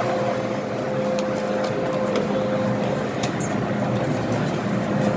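Steady hum of an MTR M-Train standing at a station with its doors open, with a faint steady tone through it and a few light taps of passengers stepping across the doorway.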